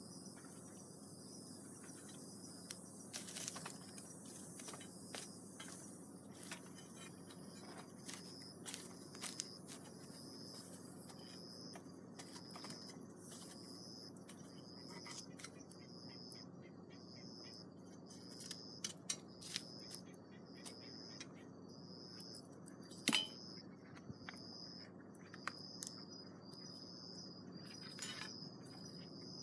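Campfire crackling faintly, with scattered sharp pops, the loudest about two-thirds of the way through. A steady, pulsing insect trill runs underneath.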